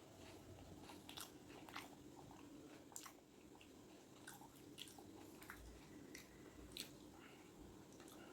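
A person chewing food close to the microphone: irregular soft mouth clicks and smacks, over a faint steady hum.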